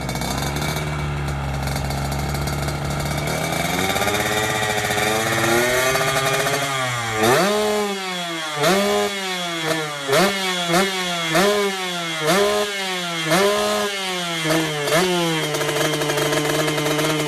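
Yamaha RX-King's two-stroke single-cylinder engine with a racing exhaust, idling, then revved up slowly, then blipped hard about eight times in quick succession, each rev rising sharply and falling back, before settling to a steady idle near the end.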